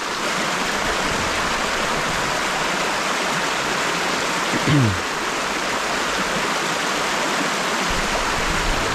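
Steady rush of water pouring over a small creek spillway. About halfway through, a short voice sound falls in pitch.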